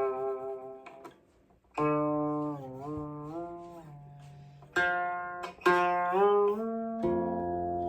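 Guqin played solo: plucked notes and double stops that ring and decay, their pitch sliding up and down as the fingers glide along the strings. The notes come in short phrases, with a near pause about a second in and fresh attacks about two, five and six seconds in.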